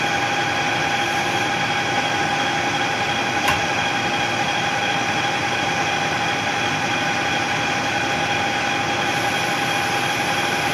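Machine tool running steadily while machining a billet aluminium shift knob: an even hum with a steady high whine, and a single faint click about three and a half seconds in.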